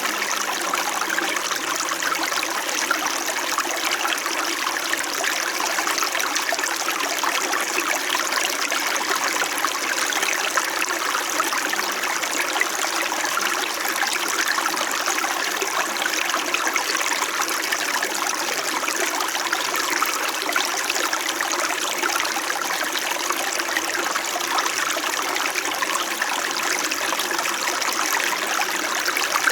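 Small mountain stream running steadily over rocks, a continuous babble and trickle of water.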